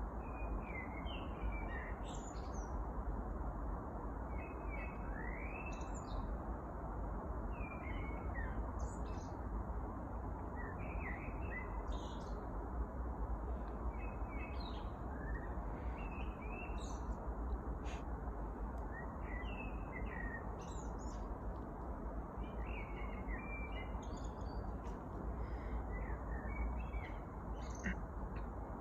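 Small wild birds singing, with short chirps and brief trills from several birds every second or so, over a steady low background rush.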